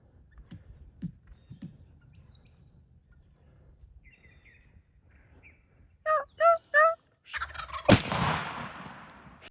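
Three quick turkey yelps, about a third of a second apart, then a single loud shotgun blast that echoes away. The yelps come just before the shot, as the adult had said he would stop the bird for the shooter.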